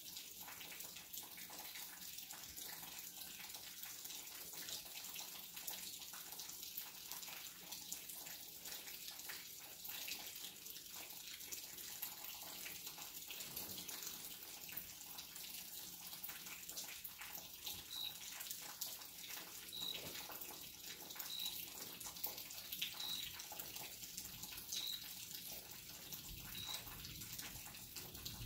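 Steady rain falling, a soft even hiss with fine pattering drops. In the second half a short high chirp repeats six times, about every two seconds. A low thunder rumble starts to build near the end.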